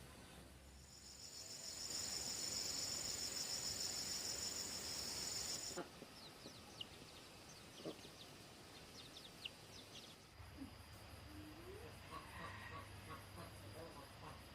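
An insect trilling a loud, high, fast-pulsing buzz that starts about a second in and stops abruptly about six seconds in. After it come scattered short high chirps and a fainter, steady high insect hum.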